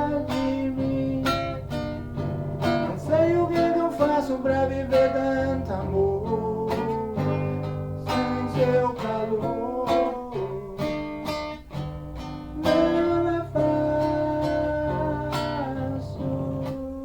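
Acoustic guitar strummed in a steady rhythm, playing an instrumental passage of a song in D major.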